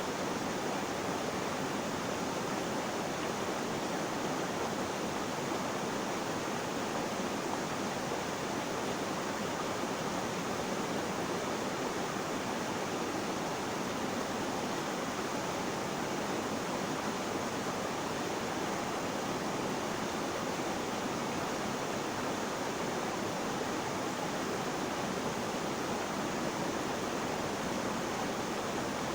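Flowing water making a steady, even rushing hiss that does not change.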